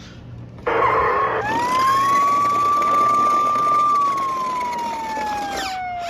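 Road Rippers Rush and Rescue toy fire truck's sound chip playing a siren effect through its small speaker: a short rough noisy burst, then one wail that rises, holds steady, and falls slowly.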